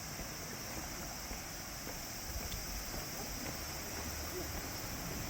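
Steady background hiss with a strong high-pitched band, a few faint clicks, and a low rumble that comes in near the end.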